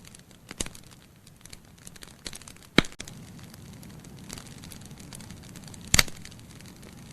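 Wood logs burning in a fireplace: a low steady hiss with scattered crackles and two loud, sharp pops, about three seconds apart.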